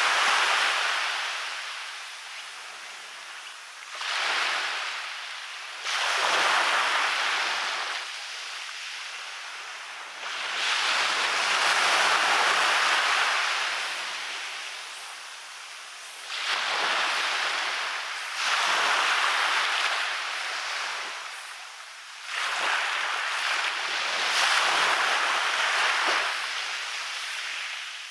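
Waves breaking and washing up onto a beach, one after another every few seconds. Each one swells up suddenly as a rush of surf and then fades away.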